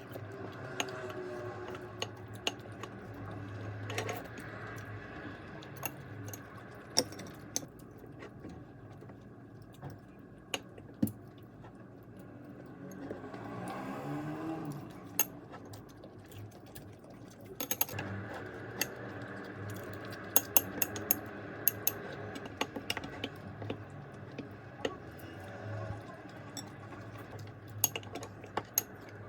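Scattered light clicks and clinks of small hard objects over a steady low hum, with a short swelling, wavering sound about halfway through.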